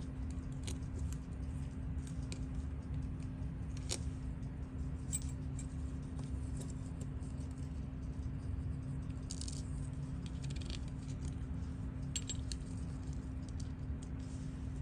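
Scattered faint clicks and ticks of steel tweezers and small tools on tiny watch movement parts during disassembly, over a steady low hum.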